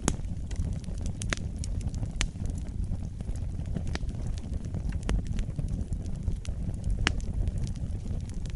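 Wood fire burning in a fireplace: a steady low rumble of flames with irregular sharp crackles and pops, roughly one a second.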